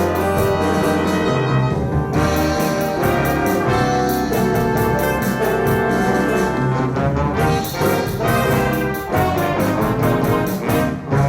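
Instrumental ensemble music led by brass, trumpets and trombones playing sustained chords over a steady beat.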